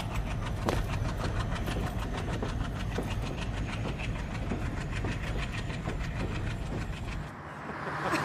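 Passenger train running past on its rails: a steady rumble with a rhythmic clickety-clack of wheels over the rail joints. Near the end the rumble drops away and a whooshing sound begins to swell.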